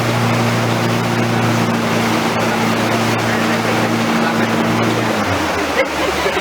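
Tour boat's motor running steadily under way, with water and wind rushing over it; about five seconds in its hum drops to a lower pitch as the boat throttles back.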